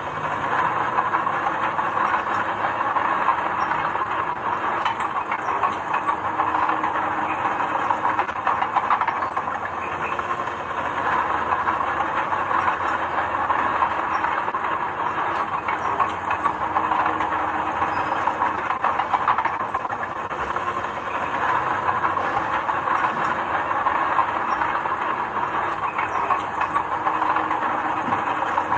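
Heavy construction machinery running steadily, with a continuous rattling clatter.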